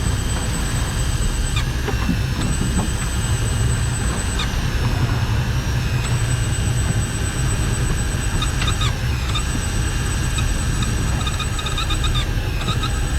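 Electric deep-drop fishing reel's motor whining as it winds line up, stopping and starting several times, over a steady low rumble of the boat.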